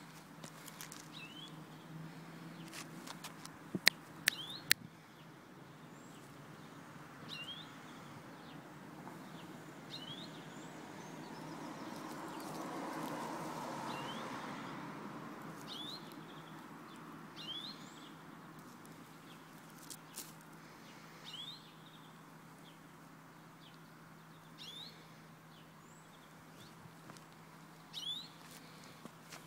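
A bird calling a short rising chirp over and over, one every second or two. There are a few sharp clicks about four seconds in and a swell of rushing noise around the middle.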